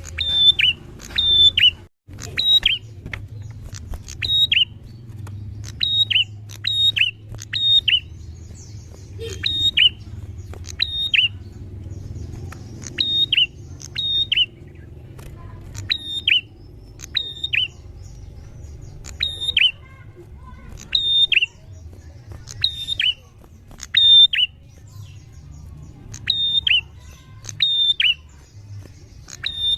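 Prinia (prenjak) calling over and over: short, sharp notes that drop in pitch, given singly or in quick twos and threes every second or two, over a low steady hum.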